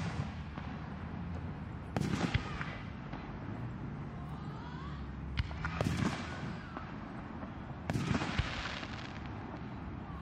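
Aerial firework shells bursting: a boom about two seconds in, two more close together around five and a half to six seconds, and another near eight seconds, each trailing off in a rolling echo.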